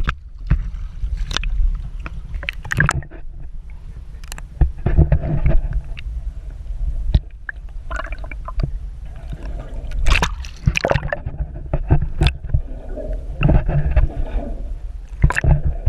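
Water sloshing and gurgling with irregular knocks and clatter, over a constant low rumble.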